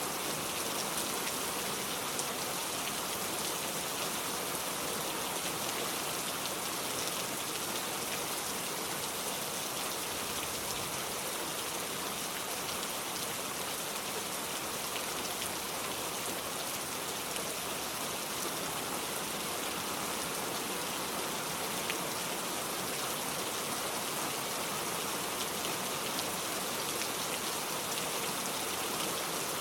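Steady rain, an even hiss of many small drops with faint scattered ticks, unchanging throughout.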